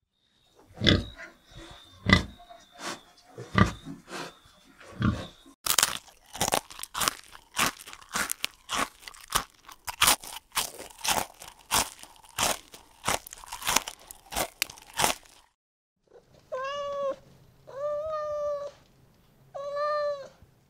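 Rapid, sharp crunching, like an animal chewing something hard, for about fifteen seconds. After a short pause, a cat meows three times, each meow about a second long and level in pitch.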